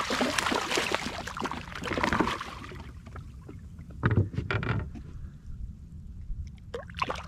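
Water splashing and rushing beside a small boat as a fish is brought in, then a couple of dull knocks on the boat about four seconds in.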